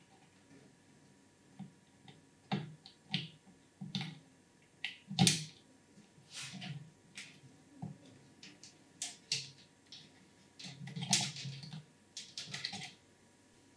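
Irregular clicks, taps and short rustles of hands handling PC parts as the motherboard is fitted into the case. The loudest is a sharp knock about five seconds in.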